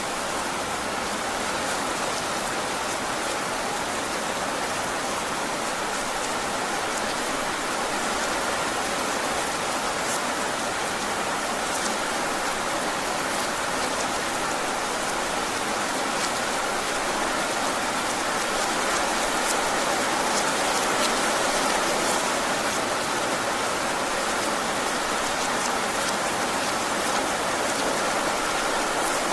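Heavy rain falling steadily, with scattered sharp ticks of individual drops.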